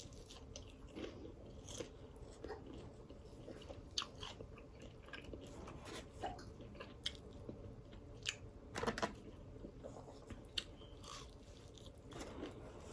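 A person chewing crispy fried fish close to the microphone: soft steady chewing broken by scattered sharp crunches of the fried crust.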